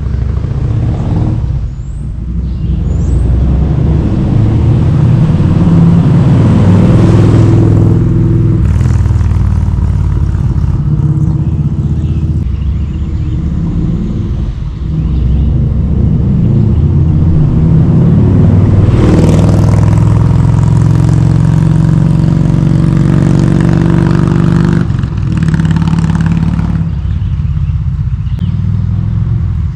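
V-twin engine of a Kawasaki Vulcan 1700 Voyager trike running under way, its note rising and falling as it accelerates and eases off. It pulls hardest a few seconds in and again a little past halfway, and backs off briefly near the middle.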